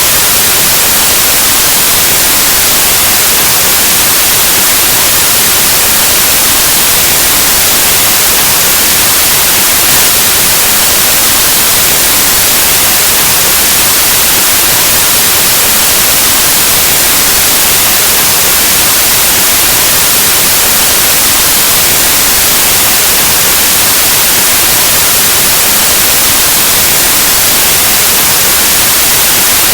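Steady, loud white noise, the hiss of static on an analog TV or radio, unchanging and brightest in the highs.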